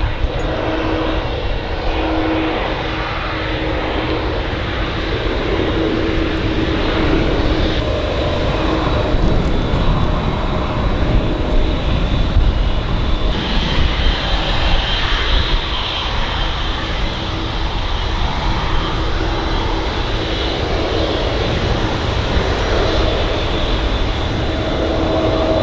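Boeing 767 jet engines running at taxi power: a steady rumble with a high whine that swells in the middle.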